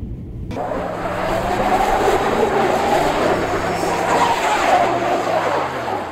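A dog crying loudly in a long, rising and falling whine inside a moving vehicle, over engine and road noise. The dog is agitated by the car ride.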